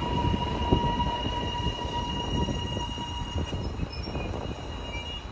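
HCMT electric suburban train pulling away, its wheels rumbling and clattering over the track with a steady high whine above, fading gradually as it moves off.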